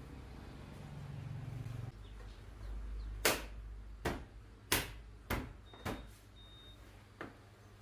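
A low hum, then about six sharp knocks or taps spaced well under a second apart, the first ones the loudest.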